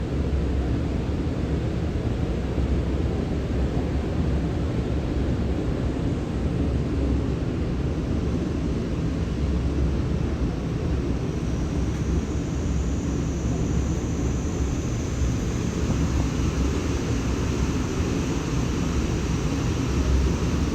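Steady rumbling noise of a railway station platform, with a faint high whine coming in about twelve seconds in.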